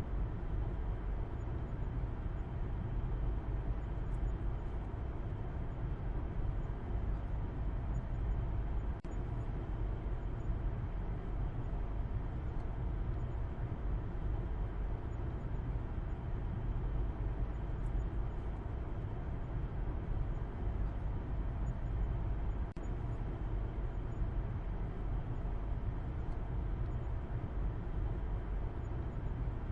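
Car driving at a steady speed: an even, low rumble of engine and road noise that does not change.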